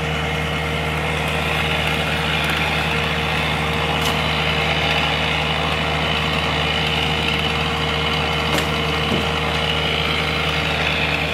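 An engine running steadily at a constant speed, a level drone that does not rise or fall.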